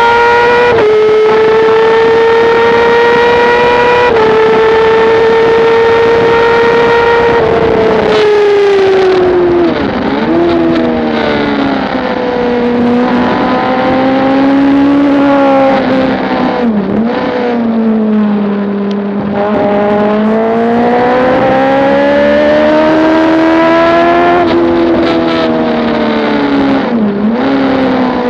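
Motorcycle engine running hard at high revs, heard from on board with wind rush. It holds a high, nearly steady pitch for about eight seconds, then falls and rises in long sweeps with several brief sharp dips, as the bike slows, shifts and accelerates through corners.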